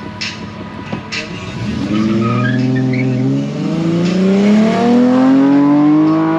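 Sport bike engine pulling hard from a standstill: after a low idle the revs climb steeply, dip briefly at a gear change about halfway through, then climb again under full throttle, with wind rush.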